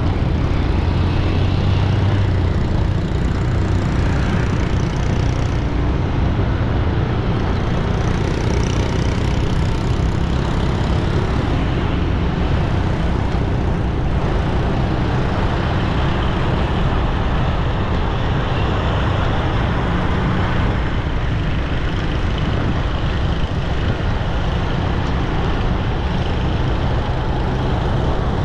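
Steady road traffic noise: vehicle engines and tyres passing in a continuous low rumble.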